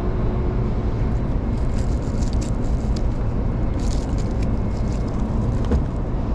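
Steady low outdoor rumble, like wind on the microphone or passing traffic, with a few faint light ticks about two and four seconds in.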